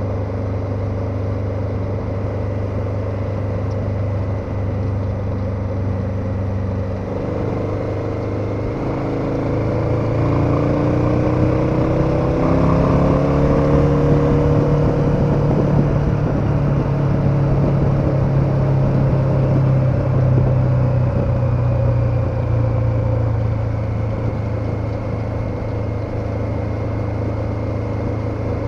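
KTM 1290 Super Adventure's V-twin engine running at a steady cruise, then revving up from about eight seconds in, holding higher revs and getting louder, and easing back to lower revs near the end.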